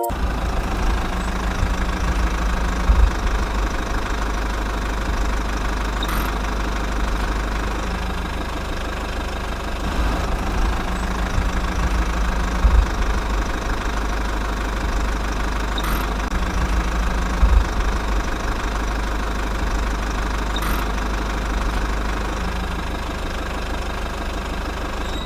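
Small motor running steadily with a low rumble, and a few faint clicks scattered through.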